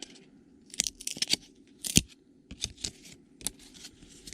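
Trading cards and card-pack wrappers being handled close to the microphone: an irregular run of short crinkles and clicks, the sharpest about two seconds in.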